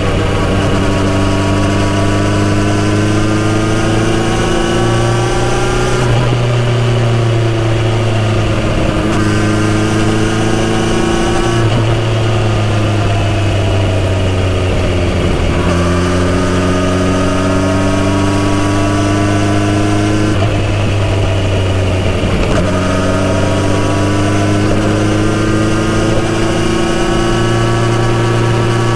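Kawasaki Z900RS inline-four running through a full-system exhaust while riding. The engine note climbs in pitch in each gear and drops sharply at each of several gear changes, with one stretch near the middle where it falls as the rider eases off.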